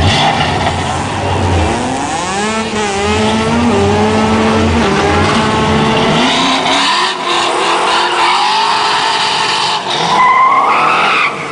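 Drag-racing cars, a fox-body Mustang and a Corvette, running at full throttle down the strip, the engine pitch climbing and dropping back at each gear change. A high rising tone comes in near the end.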